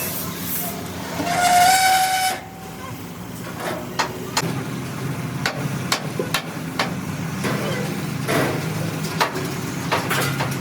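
Fabrication workshop noise: a brief loud whine or hoot about a second in, then scattered sharp knocks over a steady background rumble.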